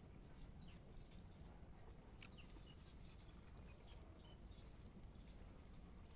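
Near silence: faint, scattered bird chirps, short falling notes several times a second, over a low steady background rumble.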